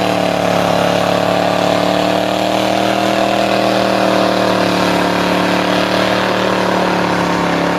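1972 Camaro Rally Sport's engine held at high, nearly steady revs during a burnout, its pitch sagging slightly a couple of seconds in, over a steady rushing noise.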